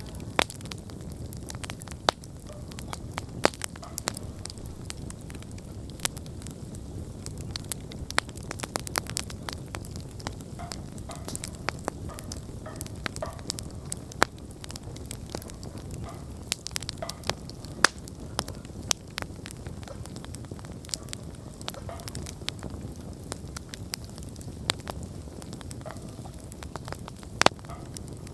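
Wood campfire burning, with frequent irregular crackles and sharp pops over a low, steady rumble of flame.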